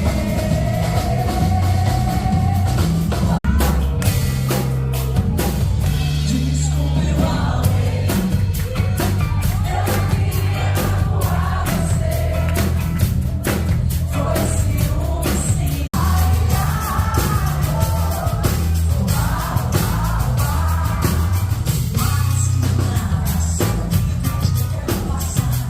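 Live band performing with a lead singer: a singing voice over drums and bass, loud and steady. The sound cuts out for an instant twice.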